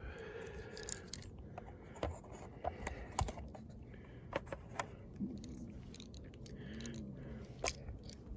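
Scattered light clicks, taps and small rattles of small parts being handled as replacement O-rings are picked out and tried on a MAP sensor.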